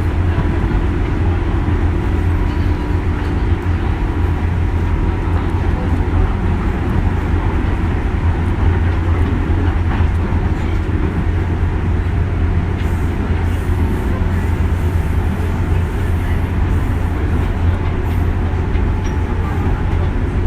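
Running noise heard inside a JR West 201 series electric train: a steady low rumble of wheels and motors, with a faint steady tone in the first few seconds that then fades.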